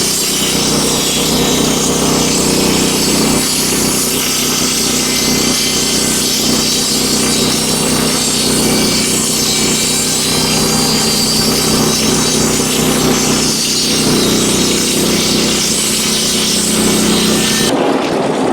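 Wood-Mizer LX25 band sawmill running, its blade cutting steadily through a hemlock beam to square it up. Near the end the cutting sound stops abruptly, leaving the mill's engine running.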